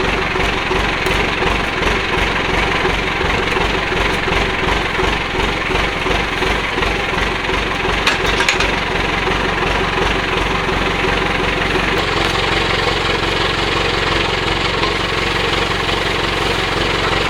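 Engine running steadily with an even, rapid low pulsing, with one short sharp knock or clatter about eight seconds in.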